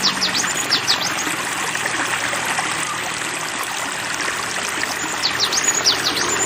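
Running water rushing steadily like a stream. A songbird's rapid series of high chirps, each sweeping downward, sounds at the very start and again from about five seconds in.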